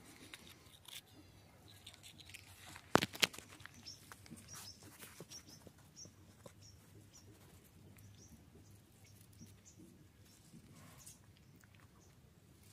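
Puppy shifting and mouthing at a plastic mop handle on dry dirt: scattered small clicks and rustles, with two sharp clicks close together about three seconds in. Faint short high chirps are heard through the middle.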